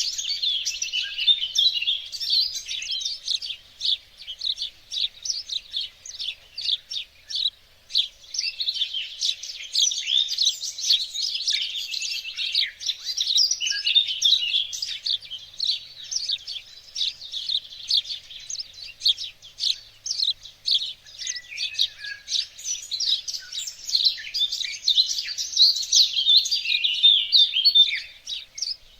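Songbirds singing and chirping in a busy, overlapping chorus of quick high notes, thinning out briefly a few seconds in.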